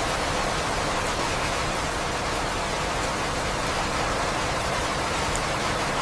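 Steady, continuous rain, an even hiss at a constant level.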